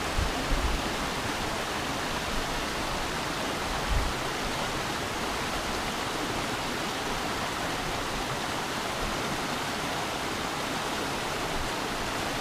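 Steady rush of flowing stream water, with a few brief low bumps near the start and again about four seconds in.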